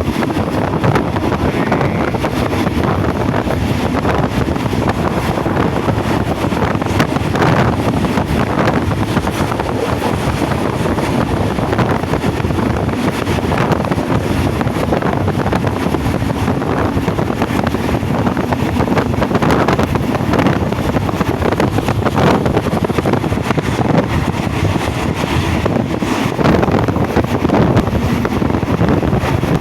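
Moving passenger train heard from on board: a steady running rumble of the carriage with wind noise on the microphone.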